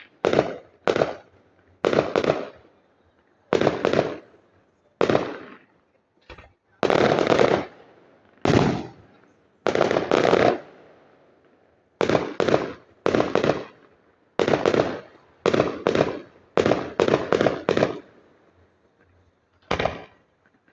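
Fireworks display: a string of loud bangs from fireworks bursting at irregular intervals, each dying away quickly, with a rapid run of bangs close together about three-quarters of the way through.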